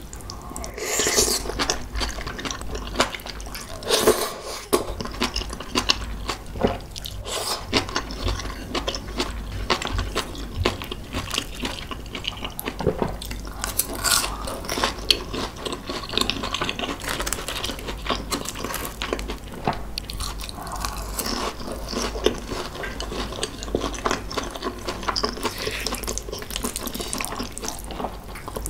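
Close-miked, wet-sounding chewing and mouth sounds of a person eating saucy spicy kimchi tuna rice: a steady run of small clicks and smacks, with brief louder bursts as new bites go in.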